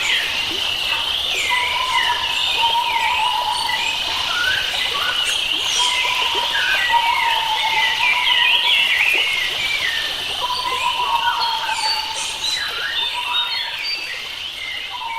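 Several wild birds singing at once: many overlapping chirps and quick whistled phrases, with a lower drawn-out whistle recurring every few seconds.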